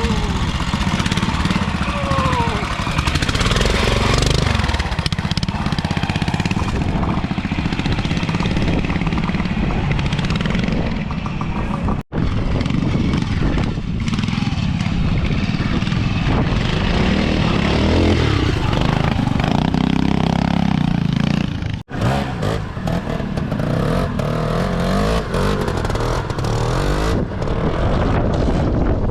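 Trials motorcycle engines running at low speed with repeated throttle blips and revving as the bikes pick their way through an off-road section. The sound breaks off sharply twice, a little under halfway through and again about three-quarters of the way in.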